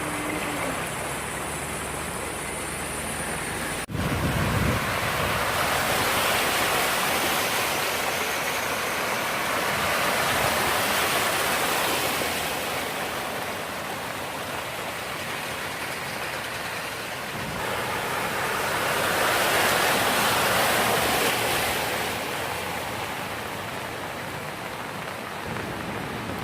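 Steady rushing water, swelling louder and easing off in long waves, with a brief break about four seconds in.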